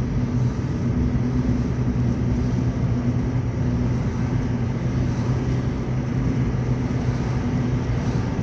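Steady car cabin noise: a low engine hum with road and ventilation noise, heard from inside the car.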